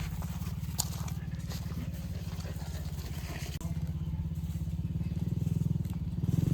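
An engine running steadily, growing a little louder toward the end.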